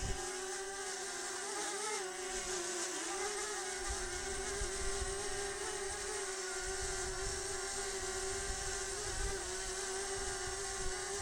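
DJI Mavic Mini's propellers giving a steady high buzz, the pitch wavering now and then as the motors work against strong gusts. Wind buffets the microphone with uneven low rumbles.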